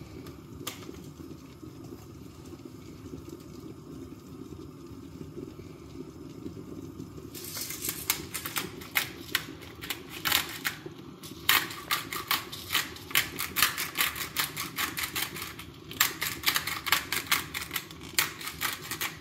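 Salt and pepper grinders being twisted over the chicken: runs of rapid ratcheting clicks, several a second, in bouts with short pauses, starting a few seconds in. A steady low hum underneath.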